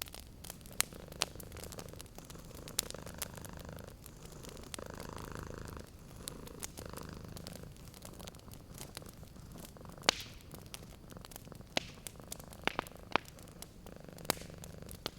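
Domestic cat purring steadily in rhythmic phrases of about two seconds, each in-and-out breath. A wood fire crackles over it with scattered sharp pops, the loudest about two-thirds of the way through.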